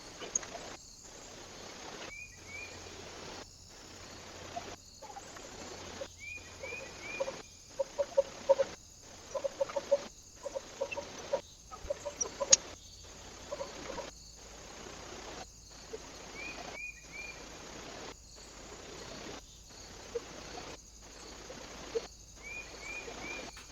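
Birds calling at a bird feeder: a short three-note chirp comes several times, and a quick run of clucking calls sounds in the middle, over a steady outdoor hiss with brief dropouts about every second.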